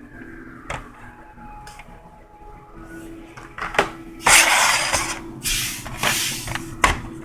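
Toy cars in their packaging being handled: a few light clicks, then, about four seconds in, several bursts of loud rustling and crinkling over about three seconds.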